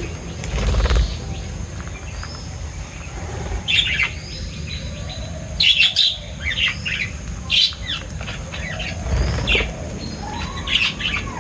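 Small birds chirping in short, quick calls, some in bursts of several notes together, with two brief dull thuds, about a second in and again near the end.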